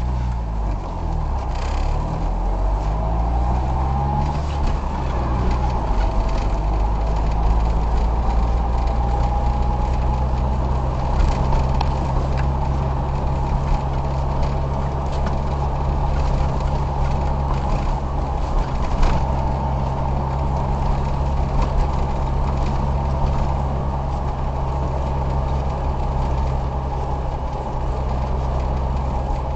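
Car being driven: its engine rises in pitch as it speeds up over the first few seconds, then settles into a steady drone over constant road noise.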